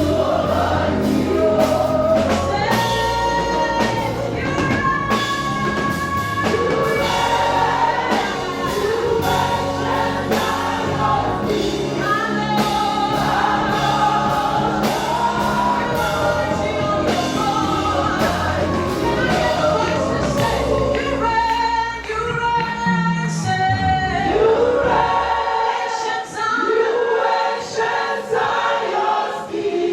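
Gospel choir singing with band accompaniment and a steady beat. About two-thirds of the way through the bass drops away, leaving mostly the voices.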